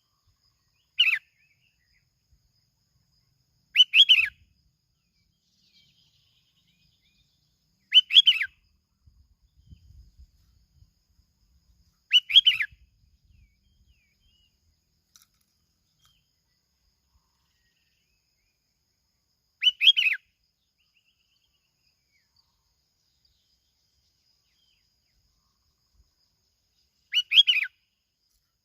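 Bulbul (bông lau) giving its short 'kít bổi' call: six brief whistled phrases, a few seconds apart at first, then a longer gap before the last two.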